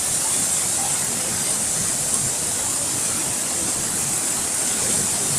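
Floodwater rushing in a steady, unbroken roar of water.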